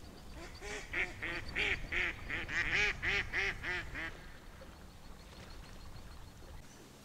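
A bird calling a rapid series of about a dozen harsh, arching notes lasting about three seconds, over a low rumble that stops suddenly near the end.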